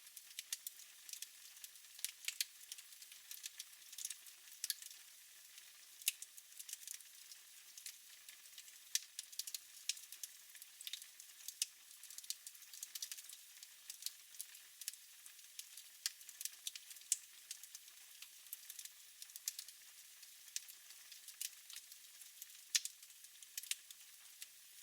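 Wood fire in a fireplace crackling: irregular sharp pops and snaps over a soft, steady hiss.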